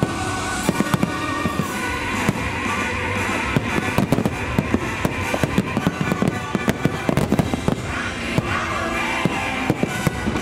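Fireworks bursting, many sharp bangs in quick succession, over the show's music soundtrack.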